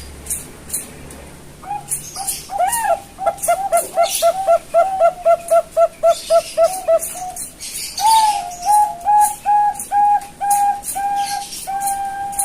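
Young Bangkok-type zebra dove (perkutut) singing. It gives a fast run of short cooing notes, about three a second, then a slower series of longer coos at a steady pitch, about two a second. Faint high clicks sound throughout.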